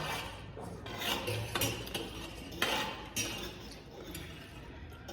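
Cutlery clinking and scraping against dishes while panipuri is eaten: several separate clicks with short scrapes between them.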